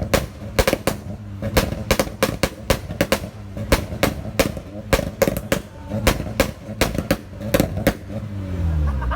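Tuned car exhaust popping and banging over a low engine rumble: many sharp bangs in quick, irregular succession. Near the end the engine revs up.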